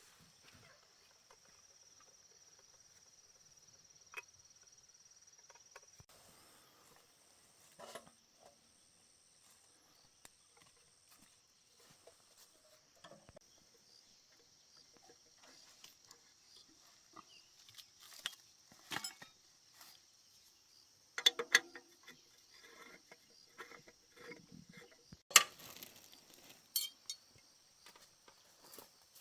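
Scattered clicks, taps and knocks of hand-tool repair work, a cluster of sharper knocks about two-thirds of the way in, over a faint steady high insect drone.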